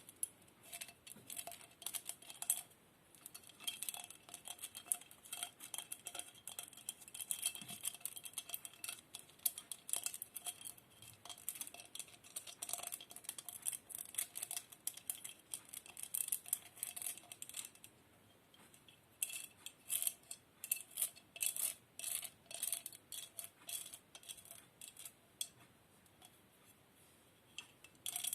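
Close-up light taps, clicks and scratches on small hard objects, dense and irregular, with a faint ringing after some strikes, pausing briefly about two-thirds of the way through.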